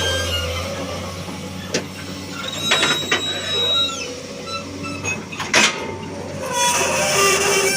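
Excavator working while loading pallet wood: a steady low engine hum with scattered knocks and clatters, a high whine for about a second and a half in the middle, and a short hiss near the end.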